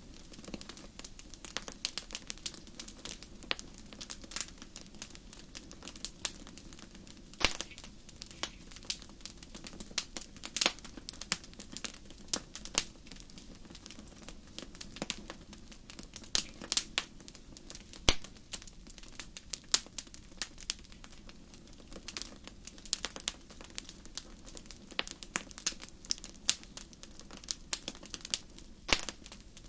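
Fireplace fire crackling: irregular sharp pops and snaps, many a second at times, over a low steady rush of flame.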